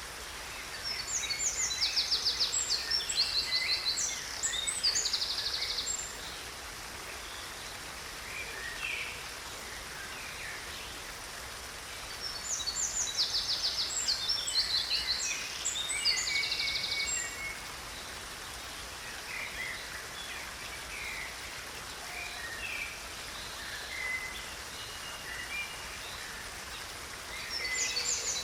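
Steady rush of a stream with a songbird singing bouts of fast, high trills and chirps: about a second in, again around twelve seconds in, and near the end.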